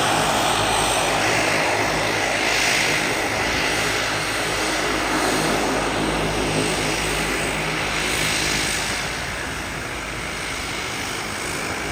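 Dash 8 turboprop airliner's engines and propellers running steadily: a loud, even rush with a steady low propeller hum.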